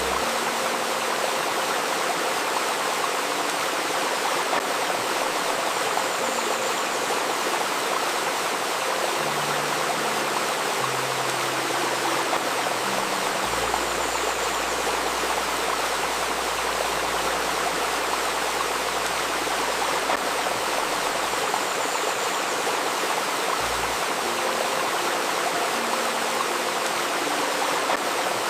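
Babbling river, a steady even rush of flowing water, with a faint steady 528 Hz tone and a few soft, low held notes underneath.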